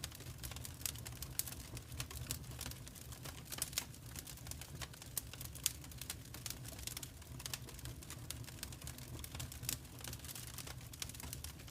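Fireplace fire crackling with dense, irregular snaps, one sharper than the rest about five and a half seconds in, over a low steady rumble.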